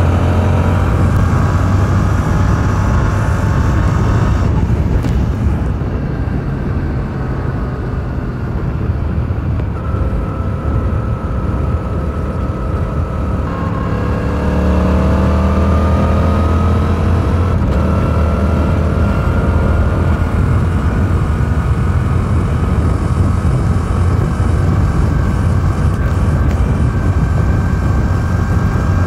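Stock exhaust of a 2022 Yamaha R7's 689 cc parallel-twin engine while riding. The revs climb over the first few seconds, fall away about four to five seconds in, climb again around the middle, then hold steady at cruise.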